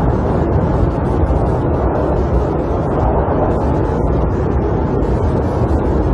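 Snowstorm wind blowing against a camper: a steady, heavy, low rushing rumble that swells and eases slightly.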